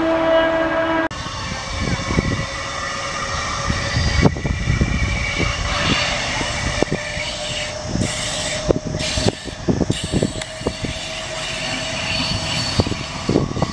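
A train horn sounds for about the first second and is cut off abruptly. Then a DEMU diesel multiple-unit train runs past, a steady rumble with many sharp, irregular clacks of wheels over rail joints.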